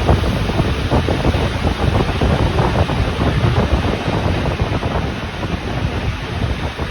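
Rhaetian Railway regional train running along the line: a loud, steady, rough rumble of wheels on rails and rushing air.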